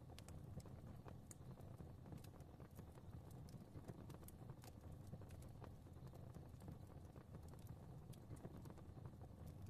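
Fire crackling softly, with irregular small pops and snaps several times a second over a low, steady rumble of flame.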